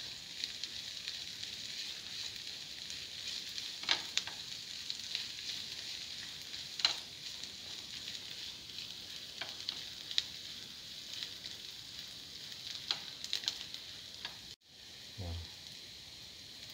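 Shallots and ginger sizzling and crackling in hot oil in a pan, stirred with a spatula that scrapes and taps against the pan every few seconds.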